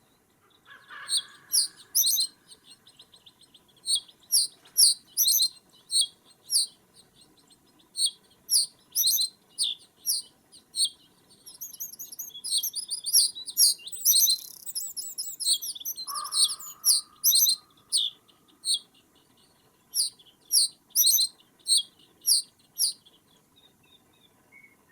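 Small birds calling with short, high chirps, repeated at irregular intervals, with a faster run of trilled notes in the middle.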